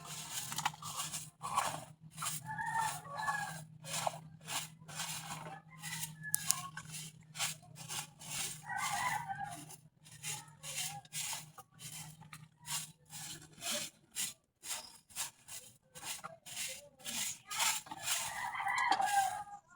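Rhythmic scraping strokes of yard sweeping on the ground, about two a second. Chickens calling, with a rooster crowing near the end.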